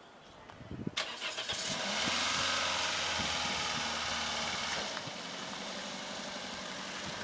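Car engine starting about a second in and running, then settling to a lower, steady level about five seconds in.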